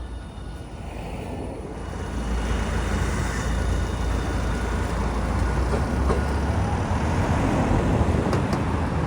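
Street traffic with a low rumble that builds over the first few seconds as a vehicle draws near, then holds steady.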